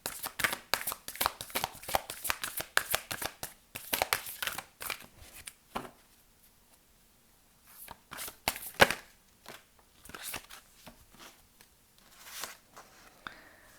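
A deck of oracle cards being shuffled by hand: a fast run of card clicks and riffling for about six seconds. After a short pause, a few separate card snaps and taps.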